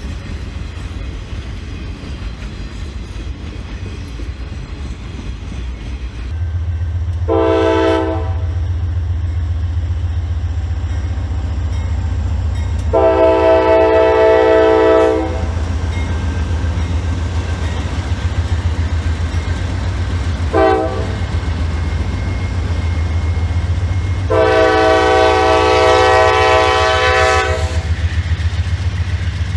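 Diesel locomotive horn sounding four blasts over the low rumble of the passing train: a short blast about seven seconds in, a long one of about two seconds, a very brief tap, then a final long blast of about three seconds near the end.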